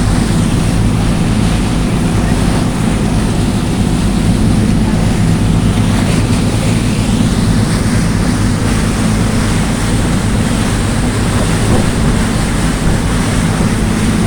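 A boat's engine running steadily, with water rushing along the hull and wind buffeting the microphone.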